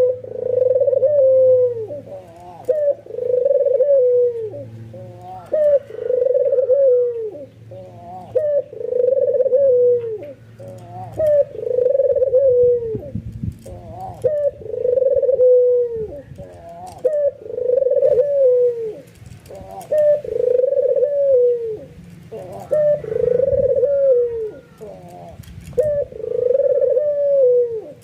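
Albino white puter dove (a Barbary dove) giving its repeated bowing coo, one call about every two seconds, each a short lead-in note followed by a longer coo that drops in pitch at the end.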